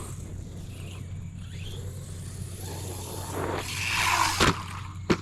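Brushless 1/10-scale RC desert truck driving off-road: the motor and tyres on dirt swell to a peak about four seconds in, followed by two sharp knocks about half a second apart.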